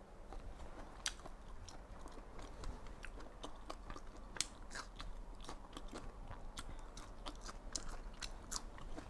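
Close-miked chewing of a mouthful of Vietnamese spring roll: irregular crunchy, wet mouth clicks and bites, with a sharper crunch about a second in and another about four and a half seconds in.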